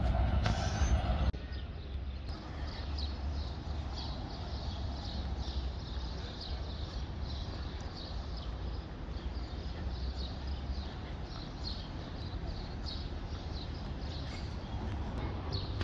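Small birds chirping repeatedly, two or three short calls a second, over a steady low rumble. A louder noise cuts off suddenly about a second in.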